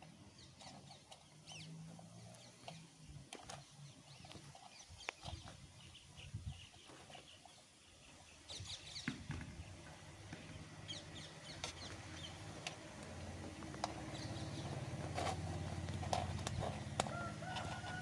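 Birds calling outdoors with scattered short high chirps throughout, over a low wind rumble that grows louder from about halfway. Near the end one drawn-out call of about two seconds rises and then falls away.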